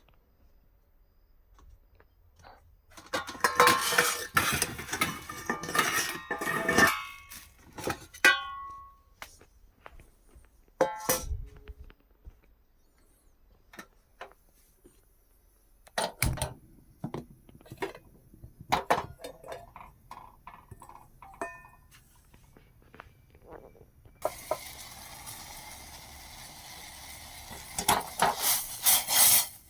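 Kitchen utensils and dishes clattering and clinking in bursts, with a brief metallic ring about eight seconds in. A steady hiss runs for several seconds near the end, under more clatter.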